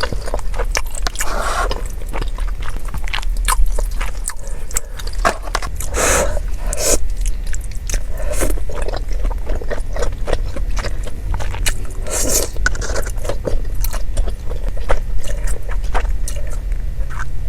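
Close-miked eating: a person biting and chewing food with wet, smacking mouth sounds and many small clicks, with a few louder bursts along the way.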